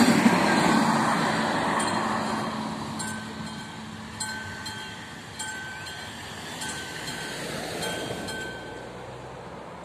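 Passenger railcar passing over a level crossing, its rumble fading away over the first few seconds. The crossing's warning bell rings on in slow, regular strikes, about one a second, then stops near the end as the crossing clears.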